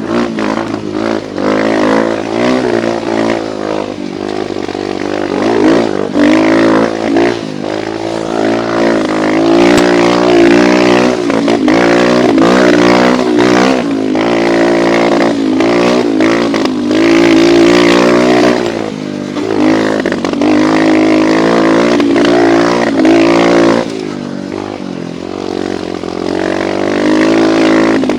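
Apollo dirt bike engine running while riding, its pitch rising and falling as the throttle opens and closes. It eases off and drops quieter for a couple of seconds near the end.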